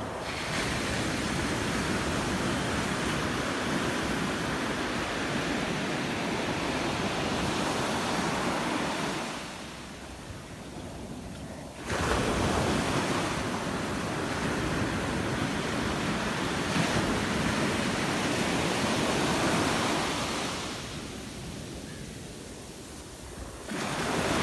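Sea surf breaking and washing on the shore, a steady rushing that eases off twice before the next waves surge back in, with some wind on the microphone.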